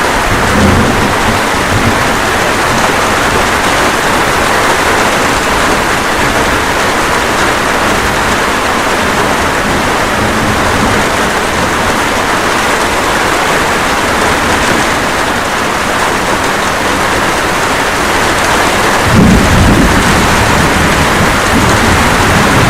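Steady light rain with thunder: a brief low rumble about a second in, and a louder, longer roll of thunder starting near the end.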